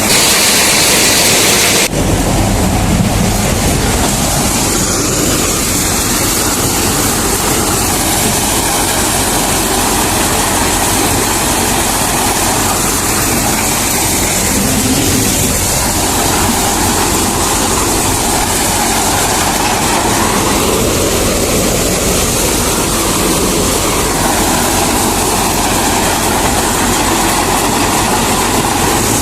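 Reinforce P-335 maize thresher running loudly and steadily, a dense machine roar. About two seconds in the sound changes abruptly, then carries on steady.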